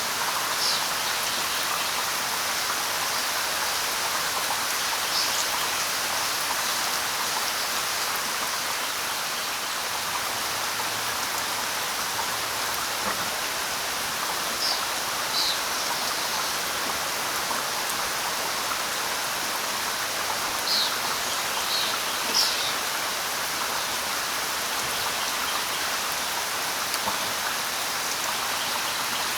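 Steady light rain, an even hiss of drops, with a few short, high bird chirps scattered through it, several coming close together about two-thirds of the way in.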